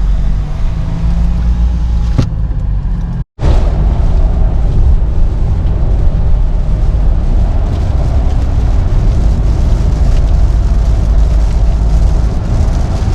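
Car on the move, heard from inside the cabin: a steady low rumble of road and engine noise. It drops out for an instant about three seconds in and then carries on unchanged.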